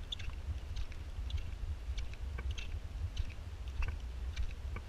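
Rain falling outdoors: a steady low rumble on the microphone with irregular sharp ticks, a few a second.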